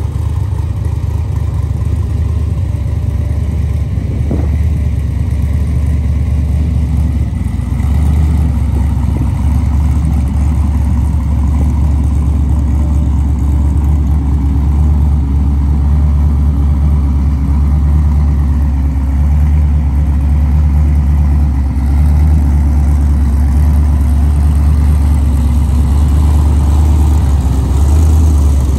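V8 engine of a Buckshot X5 sand car idling steadily through open long-tube headers, a loud low rumble.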